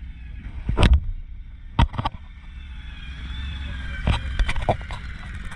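Dirt bike engine running at fairly steady revs, with sharp thumps about a second in, twice near two seconds, and a quick cluster about four seconds in.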